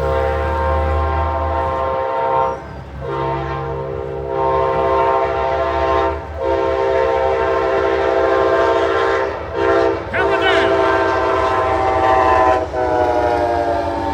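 Amtrak Sunset Limited locomotive blowing its multi-chime horn in about five long blasts over the rumble of the train. In the last blast the horn's pitch drops as the locomotive passes.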